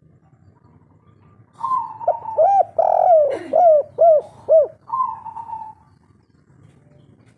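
Spotted dove (tekukur) singing one 'kuk 3' cooing phrase from about one and a half seconds in. It opens with a level coo, runs into a quick string of short arched coos, and closes with another level coo, ending before six seconds.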